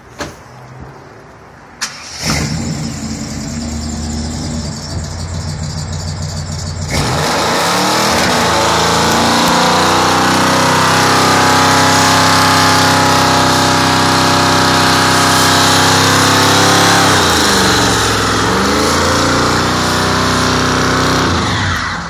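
1995 Chevy C1500 pickup's engine starts about two seconds in and runs, then is held at high revs for a burnout with the rear tyres spinning and hissing loudly from about seven seconds. The revs dip and climb again briefly before the engine drops back near the end.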